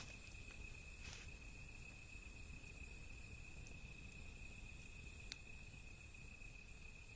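Steady, unbroken high-pitched insect trill of a cricket, with a faint crackle from the wood fire about a second in and a single sharp pop about five seconds in.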